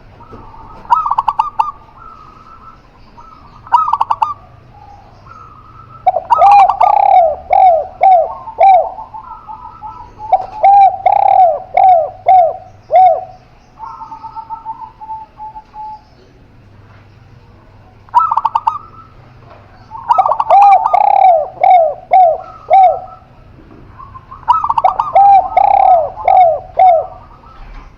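Spotted dove and zebra dove cooing: loud phrases of four to six quick, clipped coo notes come every few seconds, with short single calls between and a softer, level coo about halfway through.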